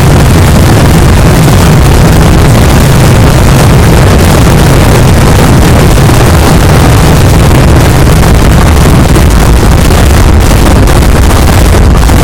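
Vedikettu fireworks barrage: firecrackers going off so densely that the bangs merge into one continuous deep rumble, loud enough to overload the microphone.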